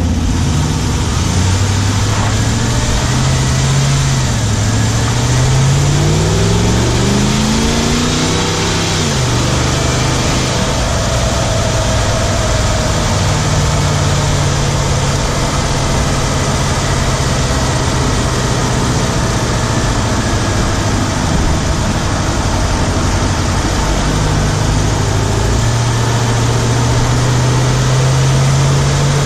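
Hemi V8 of a 2017 Ram 1500 running while driving, heard from inside the engine bay on the driver's side, with a ticking that the owner suspects is the 'Hemi tick' or something else. The engine note climbs in pitch between about five and nine seconds in, drops back, then runs steady.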